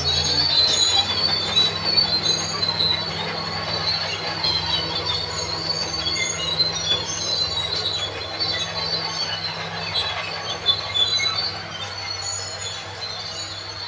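Crawler bulldozer working: its diesel engine drones low and steady while the steel tracks squeal and screech at a high pitch as they move.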